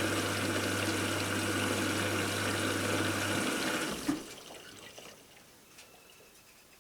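Washing machine's pump humming with water rushing through. The hum cuts off about three and a half seconds in, and the water sound ends with a click about a second later.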